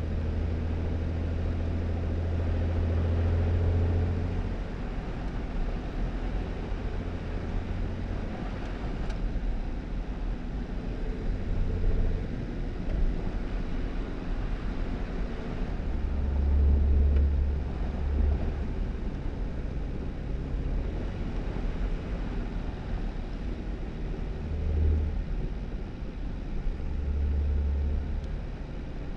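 2018 Jeep Wrangler driving on a snowy road: the engine runs with a steady low hum that swells and shifts pitch several times, over continuous tyre and road noise.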